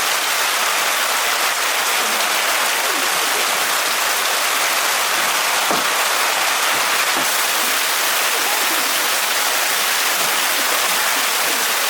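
Steady rushing water noise, an even hiss with no breaks.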